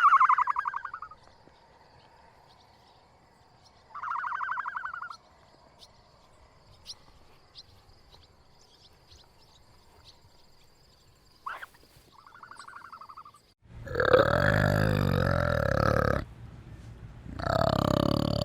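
Animal calls: three short, high, trembling calls spread apart, then near the end two long, loud, harsh calls, with faint chirping and a thin steady high tone behind.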